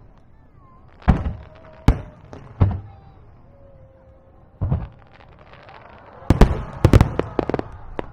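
Aerial firework shells bursting: single sharp booms a second or two apart, then a rapid cluster of bangs near the end.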